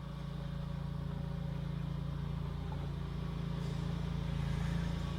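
A small engine running steadily at one pitch, fading in over the first second; it sounds like a lawnmower to the listener reacting.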